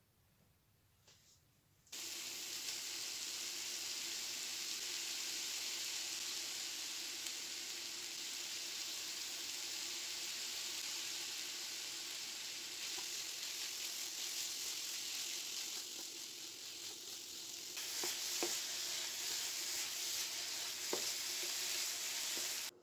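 Diced chicken breast, onion and bell peppers sizzling steadily in oil in a frying pan, starting after about two seconds of near quiet. In the last few seconds a wooden spatula stirs the mix, with a few clicks against the pan.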